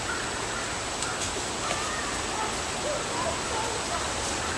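Outdoor ambience: a steady hiss with faint, distant bird calls scattered through it.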